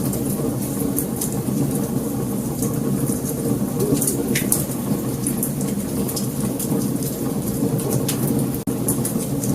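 Wood fire burning: a steady low rumble of flames with frequent sharp crackles and pops from the burning logs. The sound drops out for an instant near the end.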